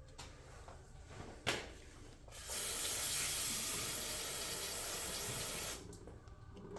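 Carburetor cleaner being sprayed through a lawnmower carburetor: a short burst of spray about a second and a half in, then a steady hissing spray for about three seconds that stops abruptly.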